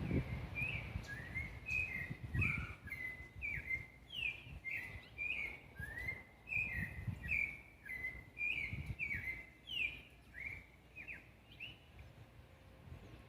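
A bird calling in a long run of short, high chirps, some rising and some falling, about two a second, stopping near the end. Low rumbling comes and goes underneath.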